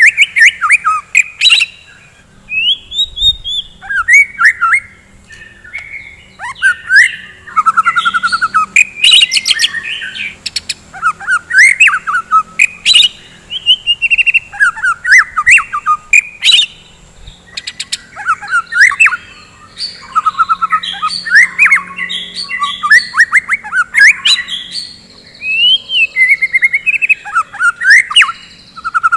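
White-rumped shama (murai batu) singing a loud, varied song of whistled glides, fast trills and sharp clicks, in phrases a second or two long broken by short pauses.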